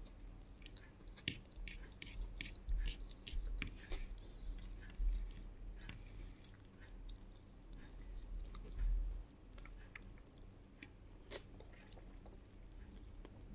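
A person chewing a mouthful of rice and fried fish, with irregular wet clicks and light crunches and a few louder bites.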